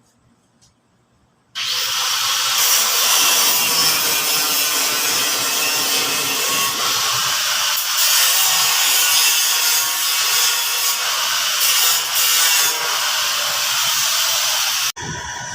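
Power tool grinding metal: a loud, steady, harsh noise that starts abruptly about a second and a half in and cuts off shortly before the end.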